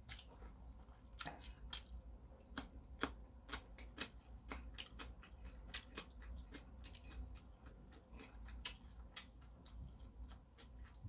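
Close-up eating sounds of a man chewing ramen noodles: a run of wet, irregularly spaced mouth clicks and smacks.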